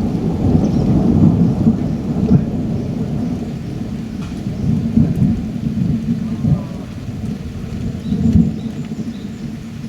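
Heavy rain with a low rolling rumble of thunder that swells several times and slowly eases off.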